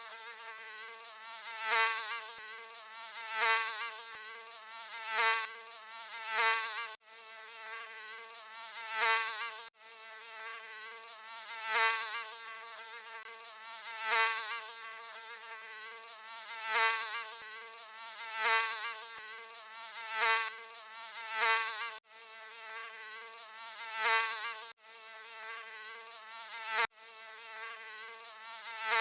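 Mosquito buzzing: a steady, thin whine that swells and fades about every two seconds, as if flying past the ear. It breaks off for an instant a handful of times.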